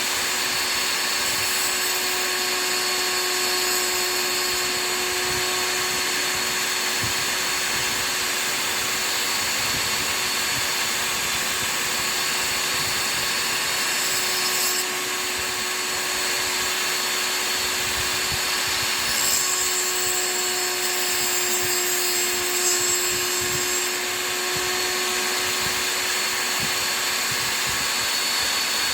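Powered sharpening machine running steadily, a grinding hiss with a steady motor hum as a chisel is ground on it; the grinding changes briefly about halfway through and again about two-thirds in.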